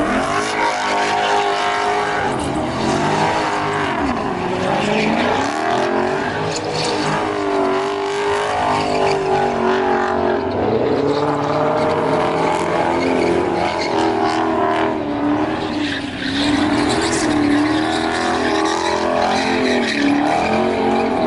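A car engine revving hard at a car meet, its pitch swinging up and down over and over.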